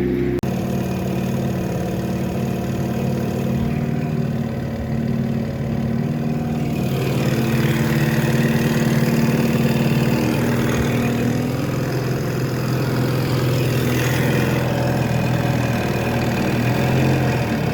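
Small 4-horsepower Johnson outboard motor pushing a canoe, running steadily with a constant engine note.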